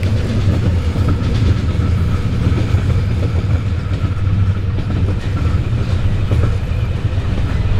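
Passenger train running: a steady low rumble of the wheels on the rails and the rattling carriage, heard from inside a compartment.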